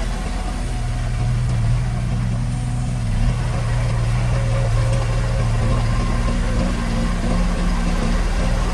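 Heavy construction-machine diesel engine running steadily at an even pitch, with a low rumble underneath.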